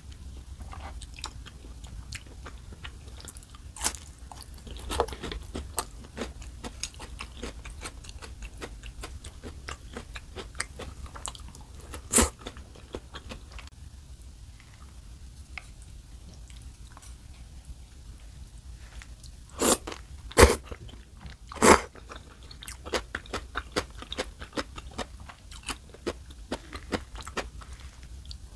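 Close-miked eating: a person chewing and crunching food in a steady run of small wet clicks, with a few louder sharp knocks, three of them close together about two-thirds of the way through.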